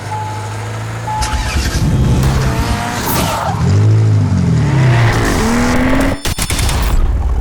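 Racing-style car sound effects: short evenly spaced beeps about a second apart, then a car engine revving up and down with tyre squeal, over music.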